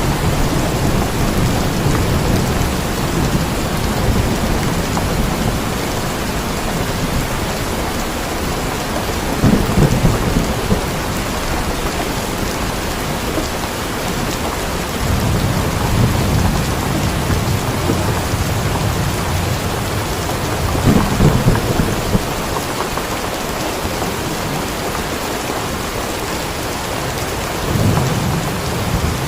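Steady heavy rain with low rumbles of thunder swelling up and fading several times.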